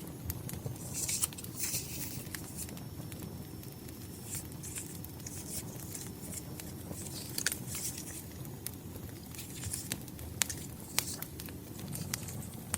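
Paper and stickers rustling and crinkling in brief bursts as they are handled, over a crackling wood fire that gives a steady low rumble and scattered sharp pops.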